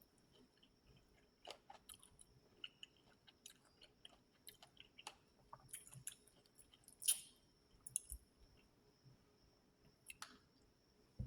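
A person chewing fruit close to the microphone: faint, irregular wet mouth clicks and smacks, a little louder about seven seconds in.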